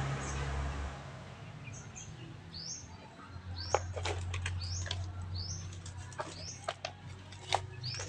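A bird calling over and over, short high chirps about once a second, with several sharp clicks and taps standing out as the loudest sounds. A low rumble fades out about a second in, and a low steady hum starts near the middle.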